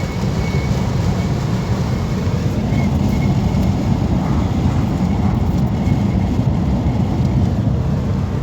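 Steady low road and wind rumble of a moving car, heard from inside as it drives along.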